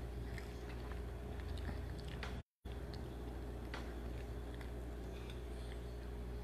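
Someone chewing a mouthful of instant noodles close to the microphone, with small clicks scattered through, over a steady low hum. The sound cuts out completely for a moment about two and a half seconds in.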